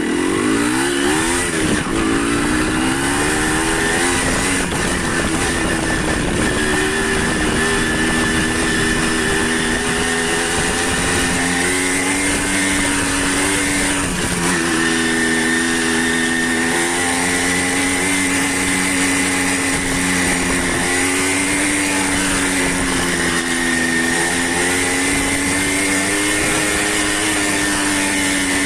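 Motorcycle engine running under way, its pitch rising and falling as it speeds up and slows, over a steady hiss.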